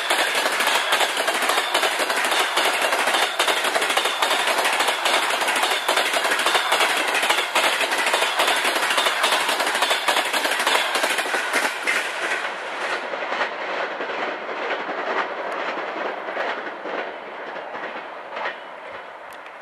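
Passenger coaches rolling past at speed, their wheels clattering rhythmically over the rail joints with a loud rushing noise. About two-thirds of the way in the sound thins and fades as the end of the train draws away, leaving fainter clicks.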